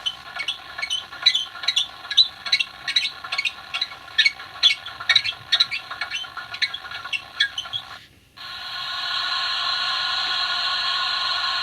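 Sound effects from a Class 24 model locomotive's DCC sound decoder, played through its small onboard speaker. An irregular run of sharp clicks and ticks lasts about eight seconds, breaks off briefly, and gives way to a steady hiss.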